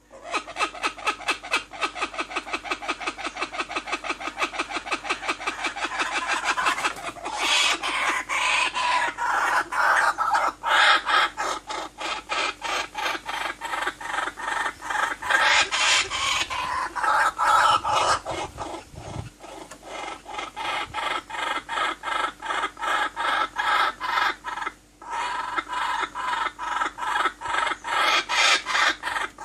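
A fast, steady run of short repeated animal calls, about four a second, with brief breaks near a quarter of the way in and near the end.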